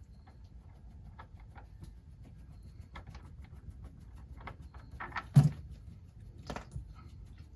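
Scattered light clicks as the oil pan's 13 mm drain bolt is worked loose, then a sharp clank about five and a half seconds in and a smaller knock a second later.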